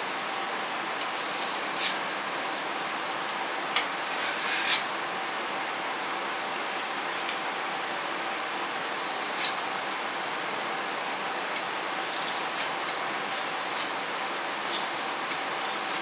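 Putty knife scraping and pressing wood putty into a hole in a wooden tabletop, in short irregular strokes over a steady background hiss.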